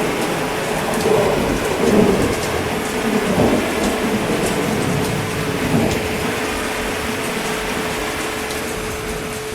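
Steady heavy rain with low rolling thunder rumbles in the first half that fade out about six seconds in. A faint steady hum sits underneath.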